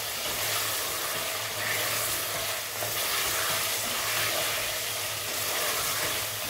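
Chicken pieces and masala frying in oil in a black coated pot, sizzling with a steady hiss while a wooden spatula stirs and turns them after green chillies are added. A low steady hum runs underneath.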